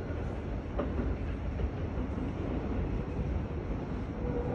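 Low, steady rumble of a Keio Sagamihara Line electric train approaching the station, still some way off down the track.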